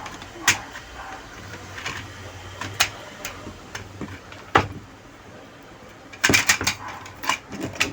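Sharp clicks and knocks of a washing machine's plastic front control panel being opened to take out its circuit board. There are single clicks spaced a second or two apart, then a quick cluster of them near the end.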